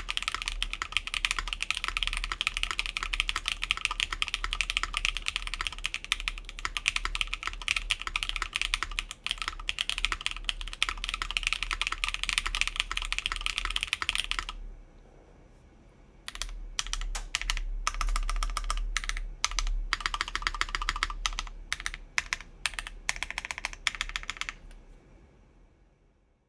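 Fast typing on an Atelier Magnus Slate Zero mechanical keyboard with an aluminum plate, lubed Keygeek Blue Cheese v2 switches and DSA keycaps, with the plate and case foam removed. A dense run of keystrokes stops about halfway through for a second or two, starts again, then fades out near the end.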